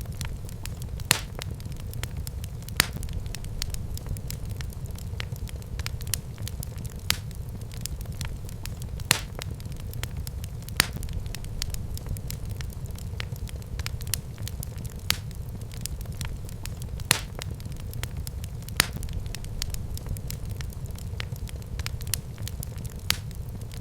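Wood fire burning in a fireplace: a steady low rumble of flames with continual crackling and sharp pops every second or two.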